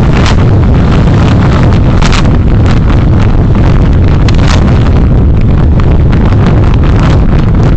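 Heavy wind buffeting the microphone of a moving vehicle's recording camera, a loud low rumble with constant irregular gusts.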